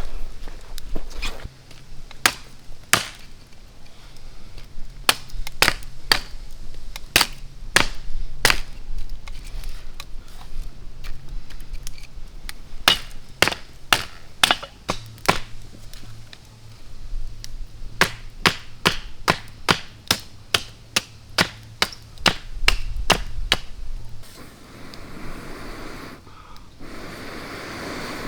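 A run of sharp chopping strikes on wood, irregular at first, then a steadier run of about two a second. Near the end the strikes stop and a brief rushing hiss follows.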